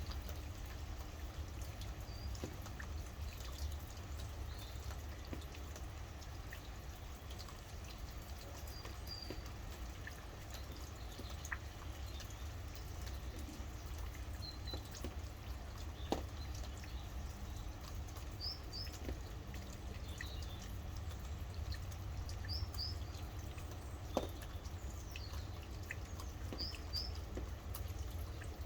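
Steady rain with a low rumble and scattered sharp drips, while small birds give short high chirps now and then, some in quick pairs.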